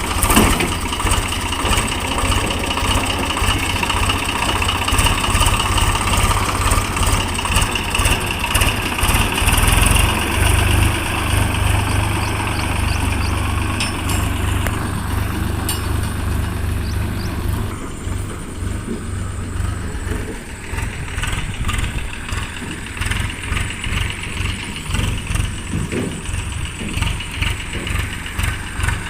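Heavy diesel engine running steadily, then easing off about two-thirds of the way through to a quieter, pulsing run.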